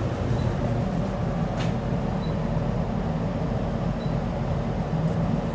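Steady low rumble and hum of a Liferonic passenger lift car, with a single faint click about one and a half seconds in.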